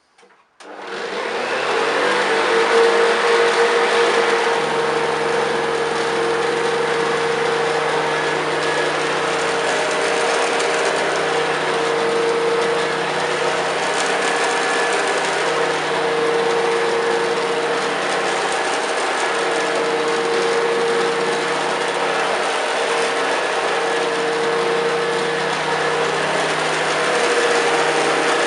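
Hoover Senior U4186 upright vacuum cleaner's 400-watt motor switched on about half a second in, spinning up quickly and then running steadily with a strong high fan whine.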